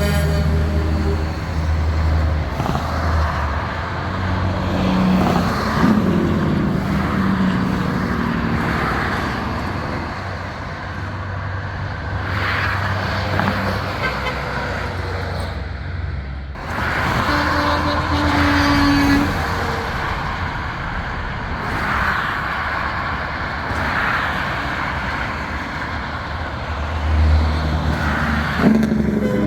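Trucks in a convoy driving past, engines running with a steady low rumble, and a short horn note about two-thirds of the way through.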